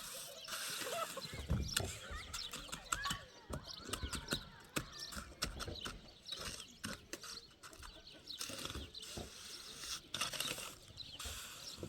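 Birds calling in short chirps over many scattered clicks and knocks.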